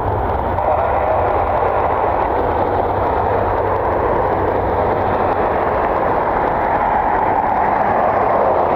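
Jet airliner engines making a loud, steady roar with a deep rumble underneath, holding even throughout.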